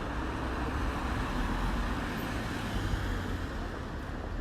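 Steady street traffic noise, a continuous low rumble of passing vehicles with no distinct events.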